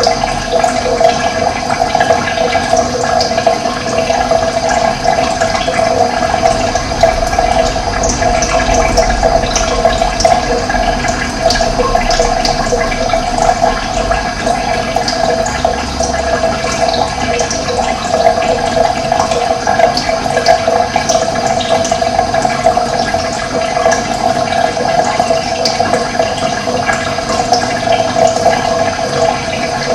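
Running water: a steady, continuous rushing flow recorded close up.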